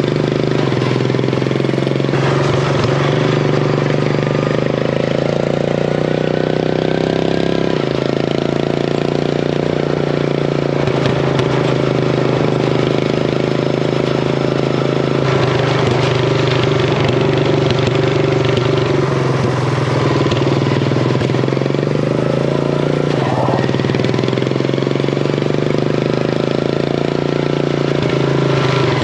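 Craftsman race mower's engine with an open header exhaust, running hard, its pitch rising and falling several times as the mower speeds up and slows.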